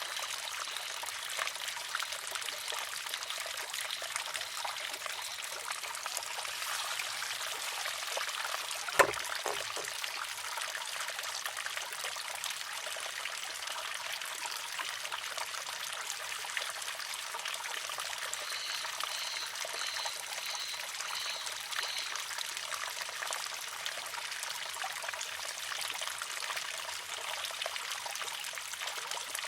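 Water trickling steadily into a wooden shishi-odoshi, with one sharp clack about nine seconds in as the water-filled arm tips over and strikes the rock.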